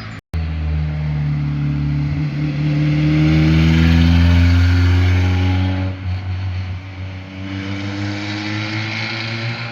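A car accelerating hard past on a mountain road, its engine note rising steadily and loudest about halfway, then falling back at a gear change around six seconds in and climbing again.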